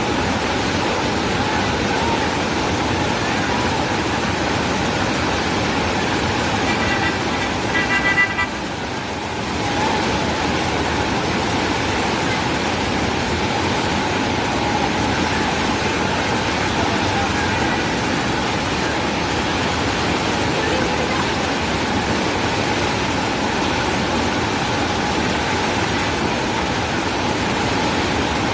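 Steady rushing of floodwater, with a pitched horn-like toot about seven seconds in that lasts under two seconds.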